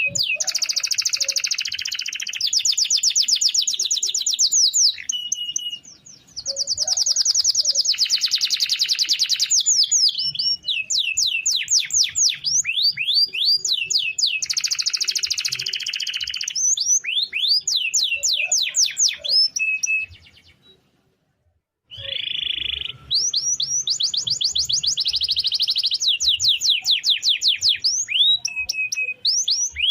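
Domestic canary singing long rolls: fast runs of repeated rising notes, some so rapid they run together into trills. The song breaks off for about a second and a half some two-thirds of the way through, then carries on.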